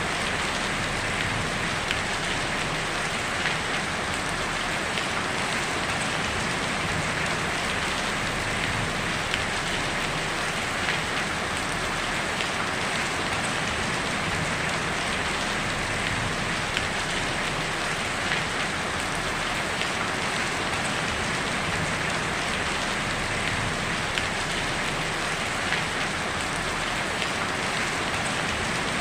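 Heavy rain falling steadily on a tin roof, a dense even patter with faint individual drop ticks.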